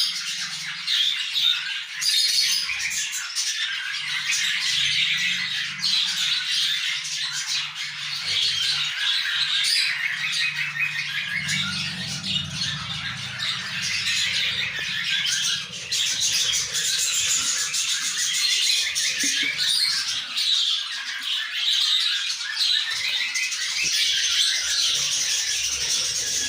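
Budgerigars in the nest squawking and chirping without a break: a dense stream of rapid, high-pitched calls.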